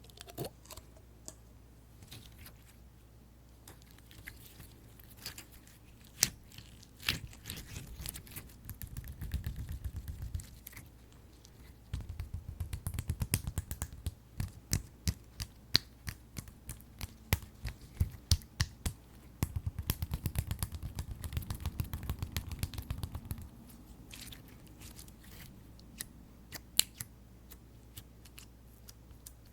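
Fingers tapping and pressing on tapioca-bead slime, giving sticky crackling clicks, with three spells of fast, dense tapping.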